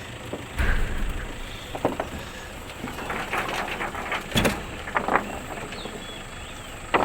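Scattered knocks and thumps from hard objects being handled: a dull thud in the first second and a sharper knock a little past four seconds, with smaller knocks between.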